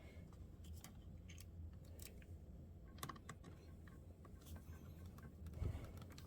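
Faint scattered clicks and light taps of small laptop parts and screws being handled during reassembly, over a low steady hum.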